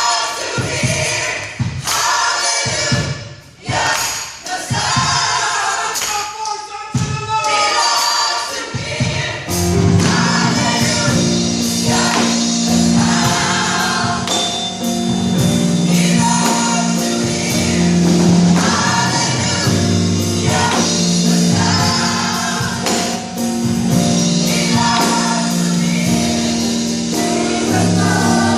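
Gospel choir singing with accompaniment. For the first nine seconds or so, the voices come with sharp rhythmic strikes. Then a steady low held accompaniment comes in under the choir and carries on.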